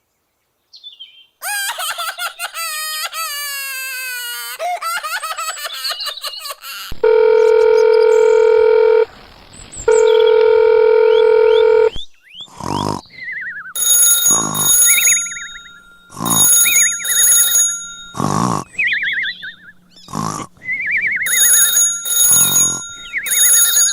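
A run of cartoon-style sound effects: a warbling tone sliding down in pitch, then a loud steady beeping tone held twice for about two seconds each, then a series of short sharp clicks mixed with quick falling chirps and high ringing tones.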